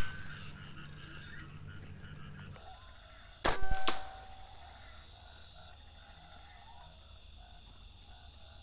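Air rifle shot: a sharp crack about three and a half seconds in, followed less than half a second later by a second sharp crack.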